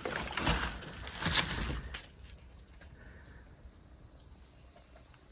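Rustling, crunching noise during the first two seconds, then a quieter stretch. A steady high-pitched insect chirring runs underneath throughout.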